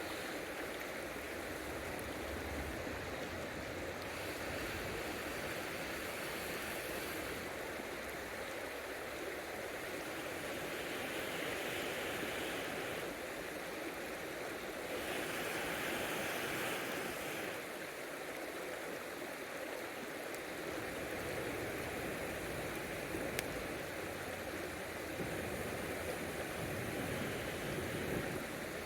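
River water flowing steadily, with a couple of short clicks in the second half.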